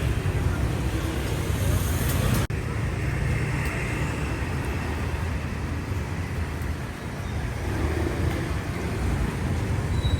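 Steady road and traffic noise heard from a moving motorcycle, with a heavy low rumble throughout. The sound cuts out for an instant about two and a half seconds in.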